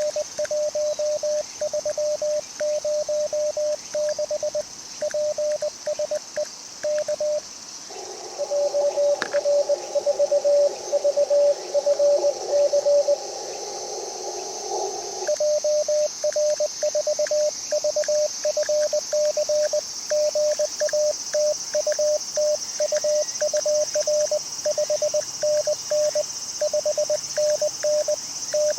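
Morse code (CW) keyed on an amateur HF transceiver, heard as a steady on-off sidetone beep at one pitch. About 8 seconds in it switches to receive for about 7 seconds: filtered receiver hiss with a weaker Morse signal from another station inside it. Then keying resumes. A steady high hiss runs underneath.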